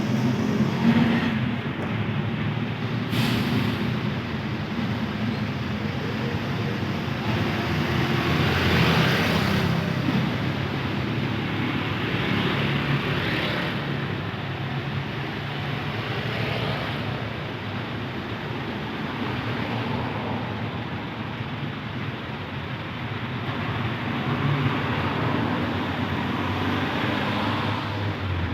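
Highway traffic with trucks: engines running low and steady while vehicles pass one after another, the road noise swelling and fading several times.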